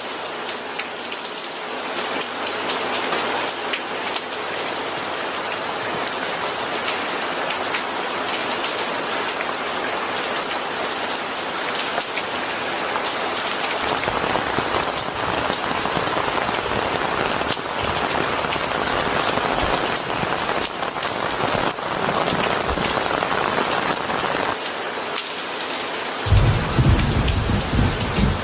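Steady rain falling, pattering on a surface. A low rumble of thunder comes in about halfway and swells louder near the end.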